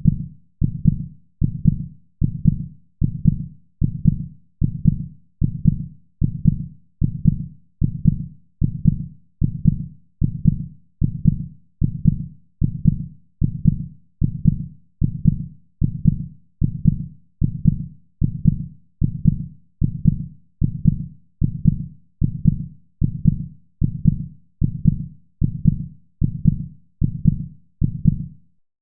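Heartbeat sound effect: a low lub-dub double beat repeating at a steady, even pace of a little over one heartbeat a second, stopping shortly before the end.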